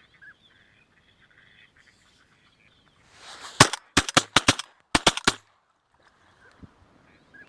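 A rapid volley of about eight shotgun shots fired at ducks in under two seconds, starting about halfway through, with faint duck calls before it.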